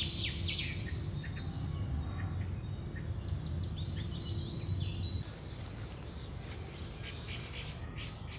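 Several birds chirping over a steady low rumble of outdoor background noise. The low rumble drops off abruptly about five seconds in, while the chirping goes on.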